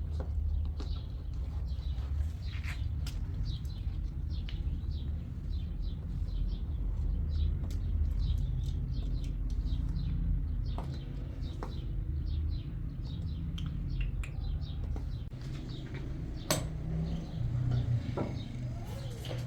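Small birds chirping again and again over a steady low rumble, with one sharp knock about three seconds before the end.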